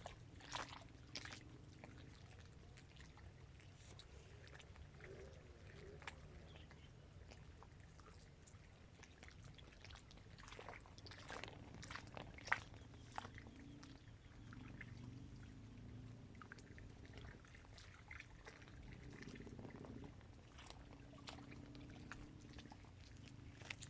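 Small waves lapping against the edge of a dam reservoir: faint, irregular little splashes and trickles over a low steady background, with one sharper splash about halfway through.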